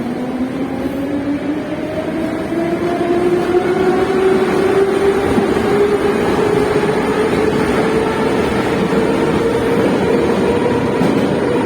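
Moscow metro train heard from inside the car as it picks up speed: the electric traction motor whine rises in pitch over several seconds and then levels off, over the steady rumble of the wheels on the rails.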